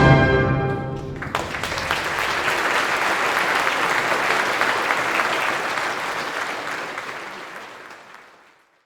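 The orchestra's final chord rings out and dies away in about a second. Audience applause then starts and slowly fades out near the end.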